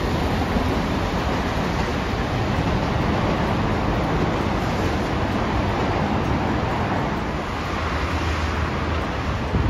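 JR Kyushu 787 series electric train running past on the tracks below, a steady rushing noise of wheels and rails blending with rain hiss and city traffic.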